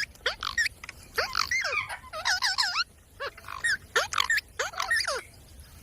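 Parrot calling: a quick series of short, high-pitched squawks and chirps, each sweeping up or down in pitch. The calls stop shortly before the end.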